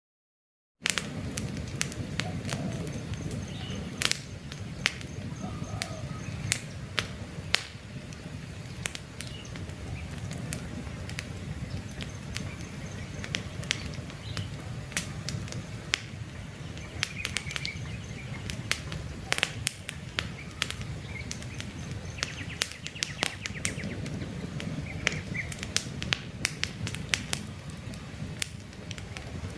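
Campfire burning with a low steady rumble and frequent sharp crackles and pops, with faint birds chirping in the background. The sound cuts out completely for the first second, then comes back.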